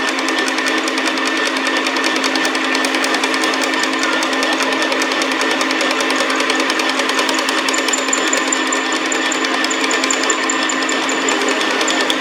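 Metal lathe running steadily with a fast, even mechanical rattle. A faint high pulsing whistle comes in about two-thirds of the way through.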